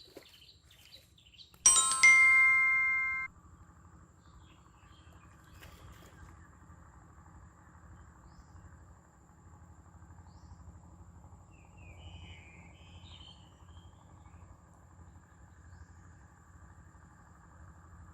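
A loud, bright chime, like a glockenspiel chord, rings for about a second and a half and then cuts off suddenly. After it, only faint steady outdoor ambience with a few soft bird chirps.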